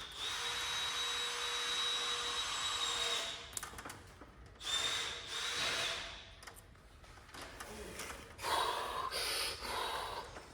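A small handheld electric power tool running with a high whine in two bursts, the first about three seconds long and the second about a second and a half, then a different, rougher noise near the end.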